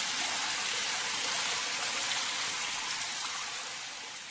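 A steady rushing hiss that fades away near the end.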